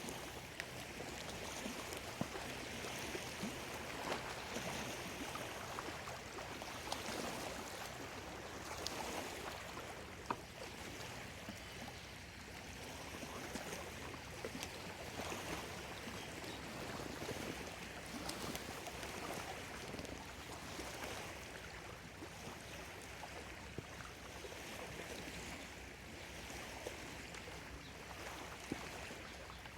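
Small waves on Lake Biwa lapping against the shore: a continuous wash that swells and eases every few seconds, with the odd small splash or click.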